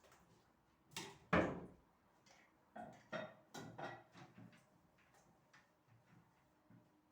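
Clatter of hard objects being handled and set down: two loud knocks about a second in, then a string of lighter clinks and knocks.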